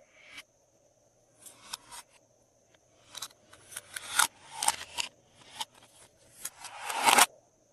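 Glossy slime being handled and pressed: a string of short, irregular wet crackling squelches, few at first and coming thick and fast from about three seconds in.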